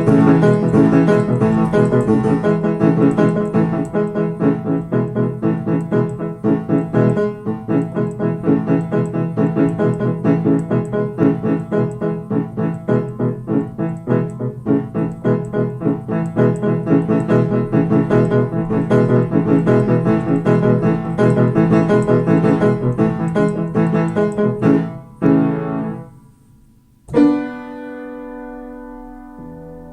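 Piano being played: a fast, dense run of notes that breaks off about 25 seconds in, then a final chord struck near the end and left ringing as it fades.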